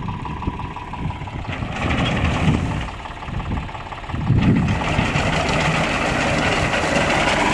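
Tractor engine running, driving a tractor-mounted reaper binder, with machine clatter over a steady low rumble; it grows louder from about four seconds in.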